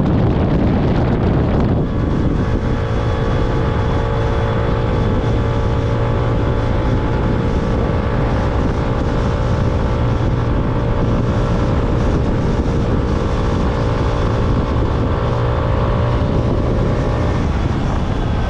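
Motorcycle engine running at a steady cruising speed, its note holding even, over heavy wind rumble on the camera microphone.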